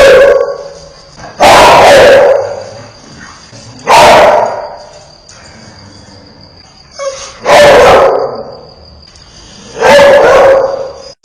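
A dog barking fiercely in loud, drawn-out barks about two to three seconds apart, four full barks, with a thin steady high tone between them.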